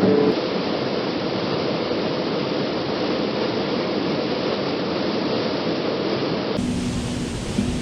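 Waterfall rushing, a steady noise of falling water. It cuts off abruptly about six and a half seconds in, giving way to a quieter background with a faint steady tone.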